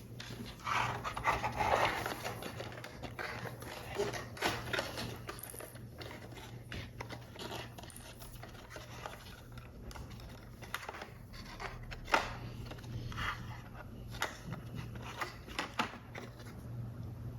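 Paper and card handled close up: irregular rustling and scraping, loudest about one to two seconds in, with scattered small clicks and taps, one sharp click about twelve seconds in. A steady low hum runs underneath.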